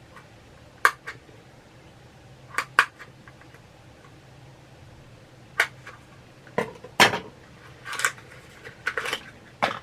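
Small metal pins and cardboard mystery boxes being handled on a tabletop: a series of sharp clicks and taps spaced a second or more apart, then a quicker run of clicks and rustling near the end.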